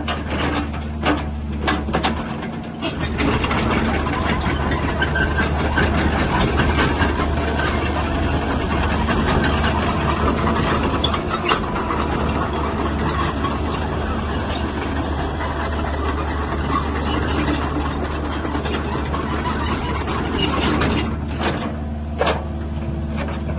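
Cat 305 mini excavator's diesel engine running with a steady low hum, growing louder and busier from about three seconds in until about twenty seconds in, with a few sharp clicks near the start and the end.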